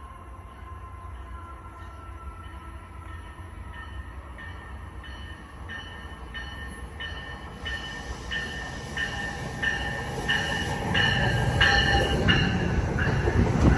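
NJ Transit multilevel commuter train pulling into a station, cab car leading, its bell ringing at about one and a half strikes a second and growing louder as it nears. The train's rumble rises over the last few seconds as the cars draw alongside.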